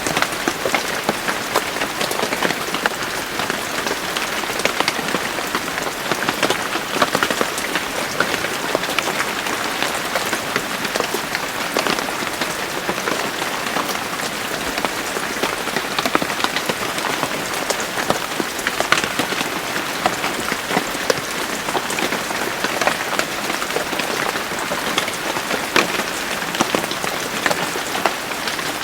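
Steady rain falling and pattering on a surface: a dense, even hiss full of individual drop ticks.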